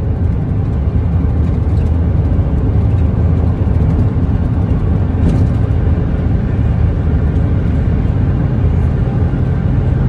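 Pickup truck running, heard from inside the cab: a steady low engine and road rumble.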